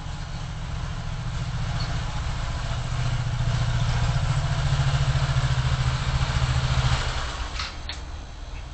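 Vehicle engine hum and road noise picked up by a dashcam, growing louder for several seconds then easing off about seven seconds in, followed by a couple of sharp clicks.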